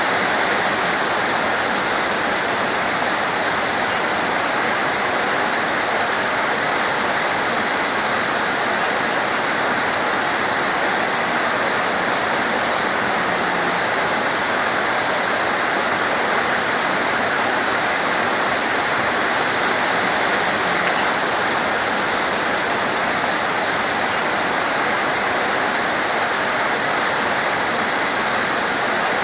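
Heavy torrential rain pouring steadily as a dense, even hiss, with one brief tick about ten seconds in.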